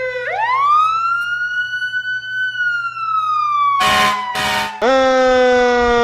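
A siren winds up from low to high pitch over about two seconds, holds, then slides slowly down, with two short hissing bursts cutting across it near the end of the fall. About five seconds in, a louder, buzzier siren tone starts abruptly and begins slowly falling in pitch.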